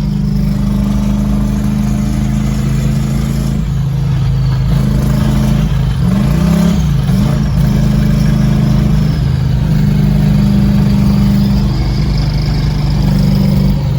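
Turbocharged 5.3 LS V8 running under way, its pitch steady but shifting about four seconds in and dipping and climbing again around the middle. The engine has started to knock heavily and is breaking up.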